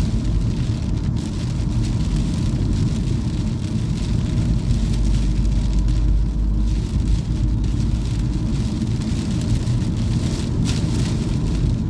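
A car being driven, heard from inside the cabin: a steady low rumble of engine and tyre noise on the road.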